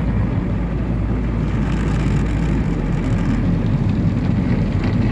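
Car running, a steady low rumble with no sharp events.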